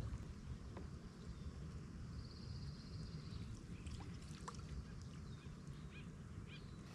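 Quiet lakeside ambience with a steady low rumble, a bird's short rapid trill about two seconds in, and a few faint chirps later.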